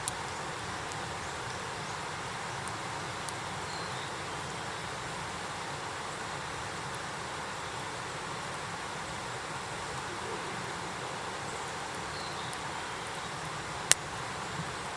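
Wood campfire burning in an iron fire pit: a steady hiss with scattered small crackles and one sharp, loud pop near the end.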